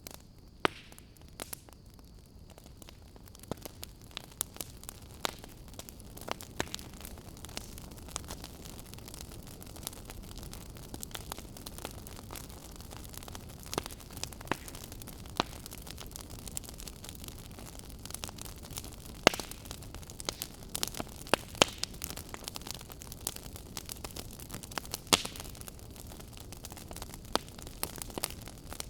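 Fire crackling: irregular sharp pops and snaps over a steady soft hiss, with a few louder pops partway through.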